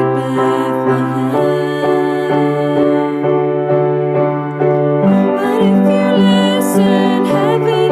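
A slow song sung by a solo voice with vibrato over a sustained piano accompaniment.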